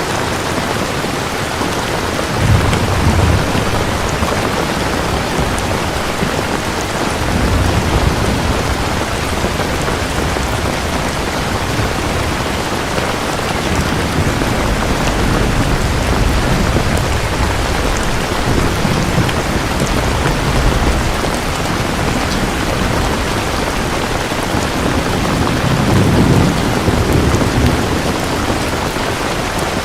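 Steady heavy rain with distant thunder rumbling low several times, loudest near the end.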